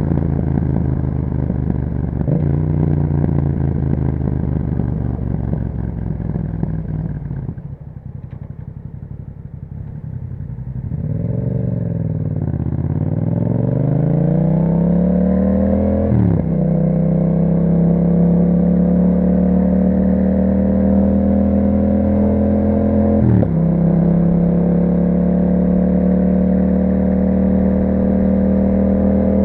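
2021 Yamaha MT-07's parallel-twin engine through an Akrapovic exhaust while riding. It pulls under throttle with a quick upshift about two seconds in. Around eight seconds in it goes off throttle and quietens, then the revs dip and climb again. It shifts up about sixteen and twenty-three seconds in and then runs at a steady, slowly rising cruise.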